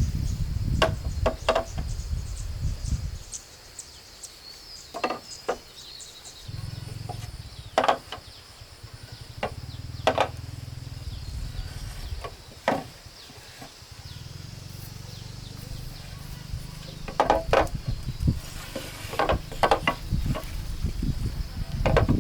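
A steady high insect drone, with scattered sharp knocks and clatter, some in quick pairs or clusters, over low rumbling noise that comes and goes.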